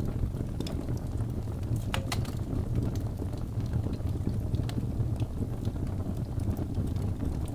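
Wood fire burning in a fireplace: a steady low rumble of flame with scattered sharp crackles and pops from the logs, the loudest pair of pops about two seconds in.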